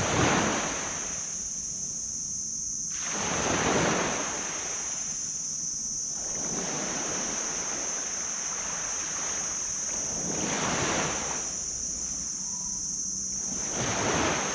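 Small sea waves breaking and washing up a sand beach, one surge about every three and a half seconds, under a steady high-pitched hiss.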